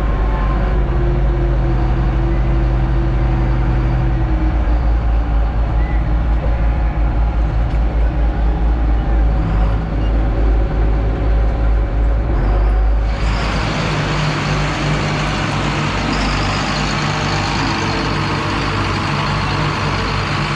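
Diesel tractor engine running loud with a deep, steady rumble, typical of a pulling tractor working hard. About two-thirds of the way through, the sound turns noisier and brighter.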